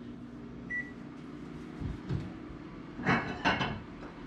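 Microwave oven running with a steady hum, a single short beep about two-thirds of a second in; the hum stops a little under two seconds in with a couple of low thuds, followed around three seconds by a brief clatter of dishes.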